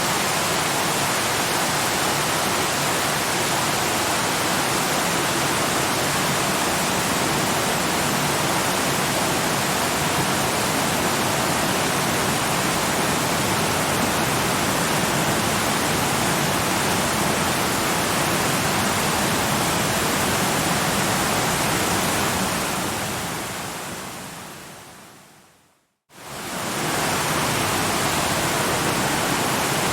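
Steady, full rush of a waterfall. About three-quarters of the way through it fades away to a moment of silence, then quickly returns: the seam where the recording loops.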